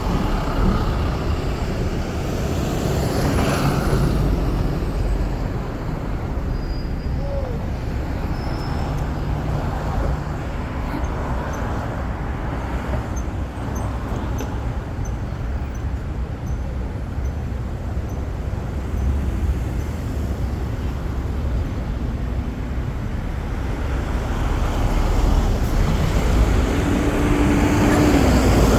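Steady city street traffic noise, a continuous rumble of passing vehicles, with a brief steady tone shortly before the end.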